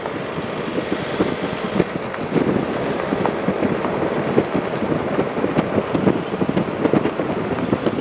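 Steady rain falling, many small drop impacts over a constant rushing noise, with wind on the microphone.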